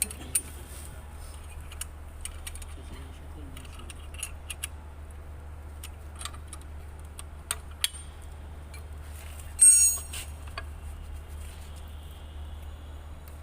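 Hand tools and metal engine parts clinking and ticking as an engine mounting is unbolted, over a steady low hum. About ten seconds in comes one brief, loud, high-pitched squeak.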